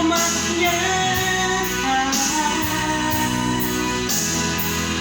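Indonesian worship song: a voice sings and holds the last word of a line, "umatnya", over about the first two seconds. After that the instrumental backing carries on alone with a steady beat.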